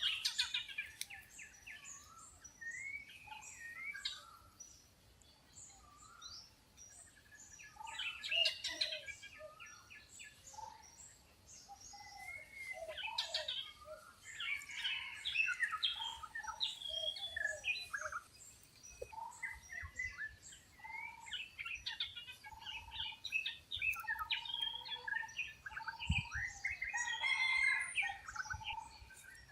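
Wild birds chirping and calling together, many overlapping short chirps, whistles and trills, with a run of short repeated notes in the second half.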